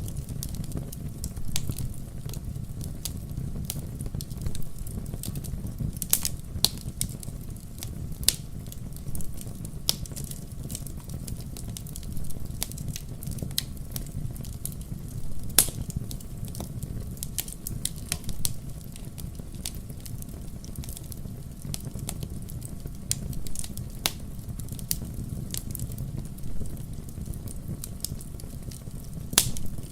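Fireplace fire burning: a steady low rumble of flames under frequent sharp crackles and pops, the loudest pop about halfway through and another near the end.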